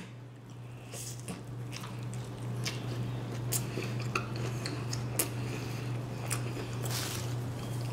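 A person biting into and chewing a spicy fried chicken sandwich close to the microphone: wet chewing with scattered sharp crunches and clicks. A steady low hum runs underneath.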